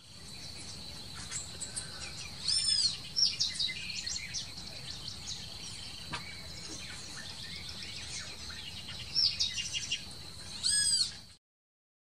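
Forest birds chirping and calling over a steady high-pitched tone, with two louder harsh, arching calls, one about two and a half seconds in and one near the end. The sound cuts off abruptly shortly before the end.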